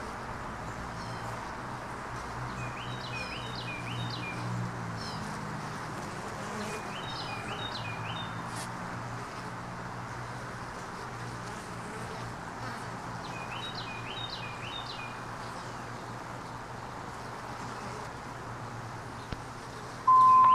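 Steady low hum of honeybees at an open hive, with a bird singing short phrases of quick notes four times. Near the end comes a brief loud steady beep from the radio scanner, the alert tone before a dispatch call.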